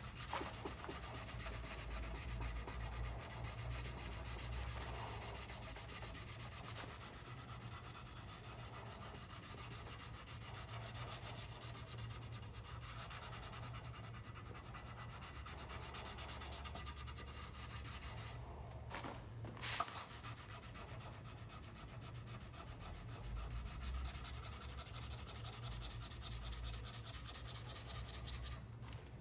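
Sandpaper rubbing rapidly back and forth over the cured epoxy of a carbon-fibre rigger repair: dry sanding to flatten the surface. The sanding stops briefly about two-thirds of the way through, with a single sharp click, then carries on.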